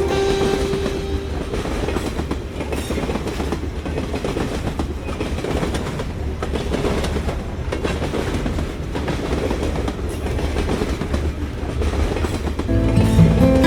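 A train running on its rails: a steady rumble with the wheels clattering over the track. Music fades in near the end.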